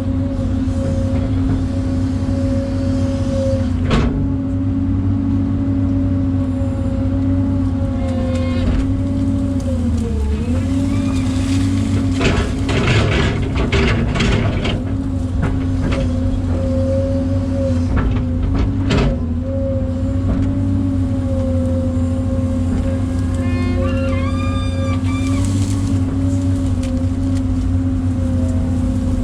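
Excavator's diesel engine running steadily, its pitch sagging briefly about a third of the way in as it takes load, with scattered knocks and clanks and a few short squeaks near the end.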